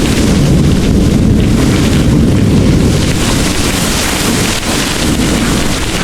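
Heavy rain pouring steadily, with a low rumble of distant thunder swelling through the first half and easing off.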